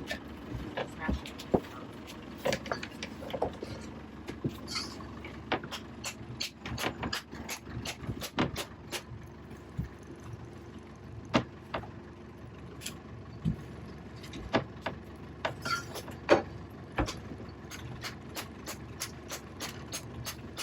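Sharp, irregular knocks and taps of a tool striking a whole coconut to break it open, turning to a quicker, even tapping near the end.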